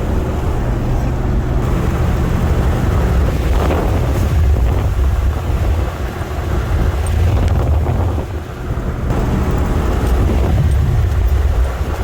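Chevrolet Tahoe driving on the road: a steady low rumble of engine and tyre noise with wind noise over it, easing off briefly about two-thirds of the way through.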